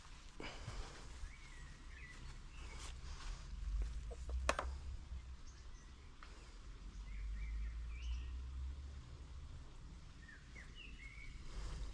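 Small birds chirping in short, rising-and-falling calls, several times, over a steady low rumble. Brief rustles of plants being brushed, and a sharp click about four and a half seconds in.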